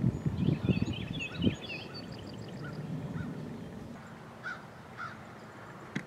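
Wild birds calling outdoors: a quick twittering song in the first two seconds, then two short single calls near the end. Low rumbling thumps on the microphone in the first second and a half.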